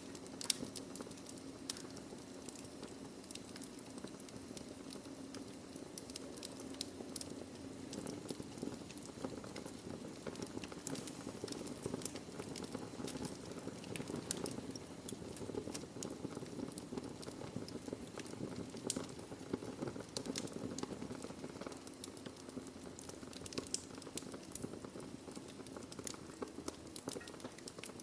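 Wood fire burning in a fireplace: a steady low hiss of flames with frequent sharp crackles and pops from the logs, scattered irregularly throughout.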